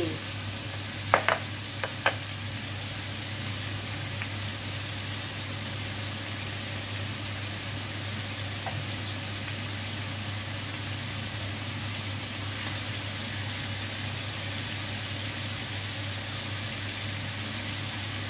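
Chicken pieces frying in oil in a wok with chili, garlic and ginger just added, a steady sizzle, turned with metal tongs. A few sharp clicks come between one and two seconds in, with a steady low hum underneath.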